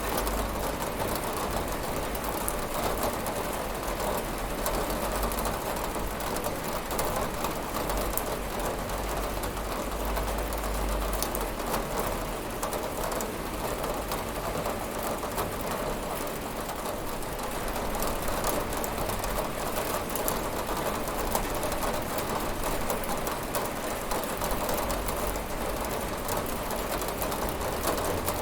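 Steady rain falling and pattering on a window, with fine drop ticks and a low rumble underneath.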